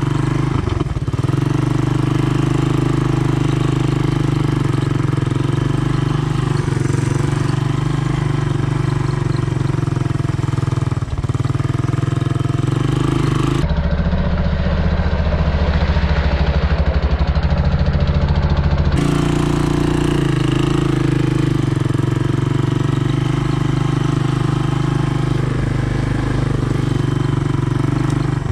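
Honda ATC 200M three-wheeler's single-cylinder four-stroke engine running steadily. For about five seconds in the middle the sound turns deeper and duller, then returns to its earlier note.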